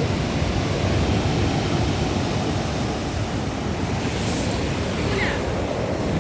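Sea surf washing steadily with wind rumbling on the microphone; a brief higher hiss about four seconds in.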